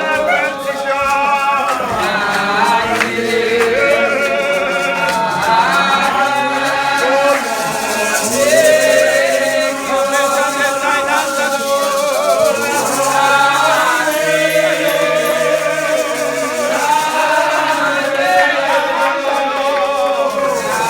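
A congregation singing a hymn together, many voices at once, with shakers rattling along.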